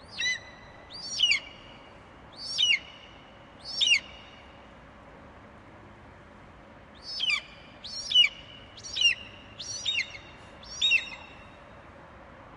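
Eagle screeching: short, high calls that each fall sharply in pitch. Four calls come about a second apart, then after a pause of about three seconds come five more.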